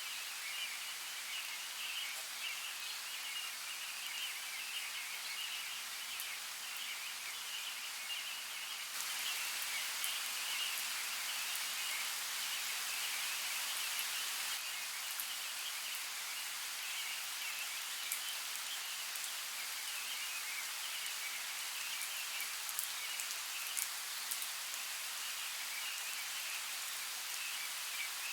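Forest nature ambience: a steady hiss of water with a high, continuous animal chorus and scattered drip-like ticks. The hiss grows louder about nine seconds in.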